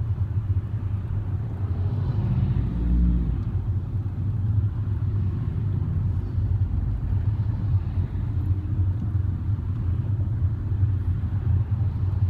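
Steady low rumble of a car's engine and road noise heard from inside the cabin, creeping along in slow traffic, with a brief deeper surge about two to three seconds in.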